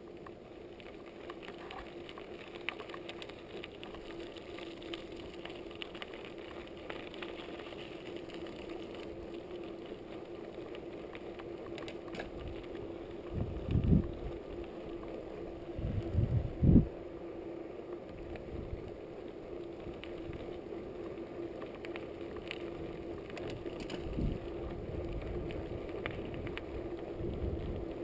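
Trek Fuel EX8 full-suspension mountain bike being ridden, heard close up from the seat post: a steady tyre hum with light chain and frame rattle. Two heavy thumps come around halfway, about three seconds apart, as the bike hits bumps.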